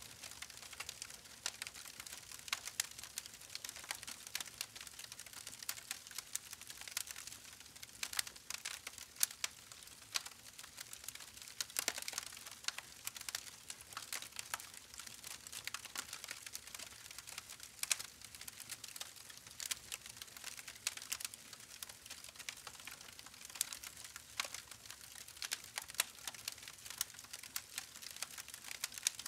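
Campfire burning with continual crackling and popping, many small irregular snaps a second over a faint hiss.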